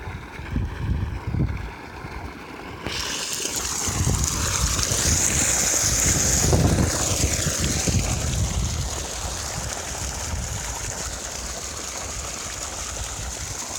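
Wind buffeting the microphone in gusts, with a steady high hiss that comes in suddenly about three seconds in, swells and then slowly fades.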